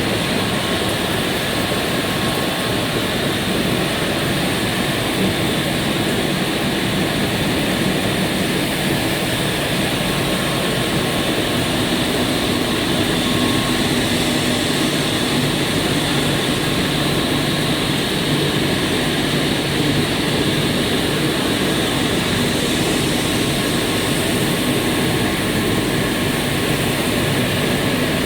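EPE polyethylene foam sheet extrusion line running: a steady, unchanging mechanical roar with a faint hum underneath.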